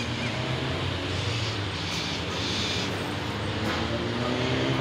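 Steady low engine drone whose pitch slowly drifts, over an even hiss of rain.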